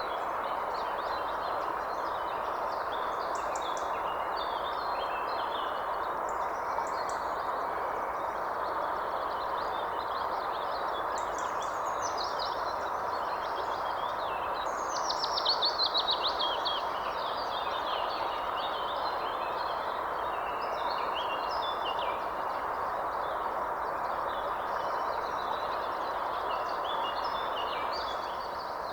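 Many birds calling and singing over a steady background hiss. About halfway through, one bird gives a loud, fast series of notes falling in pitch.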